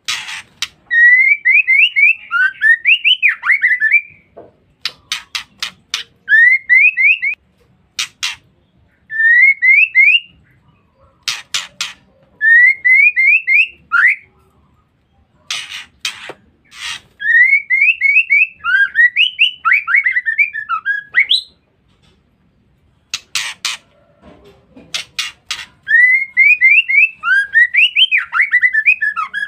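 Female white-rumped shama calling: harsh chattering bursts (ngeriwik) alternating with quick runs of short rising whistled notes, repeated in bouts every few seconds. It is a lure recording used to draw or stimulate other shamas.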